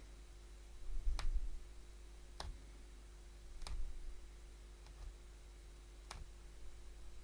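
Punch needle stabbing through stretched fabric, a sharp click with each stroke: five at an even pace, about one every second and a quarter, over a faint steady hum.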